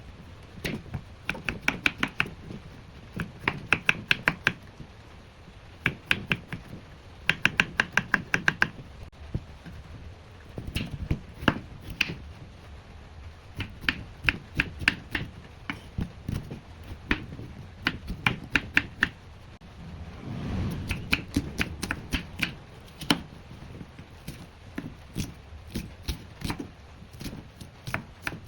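Knife chopping on a cutting board in quick runs of several strokes a second, with short pauses between the runs.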